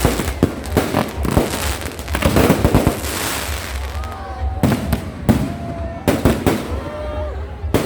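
Fireworks going off: a rapid series of sharp bangs with crackling, densest in the first half.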